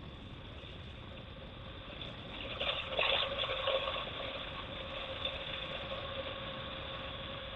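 BMW R1200GS Adventure's boxer-twin engine and road noise while riding, a steady hum with wind rush that swells briefly about three seconds in.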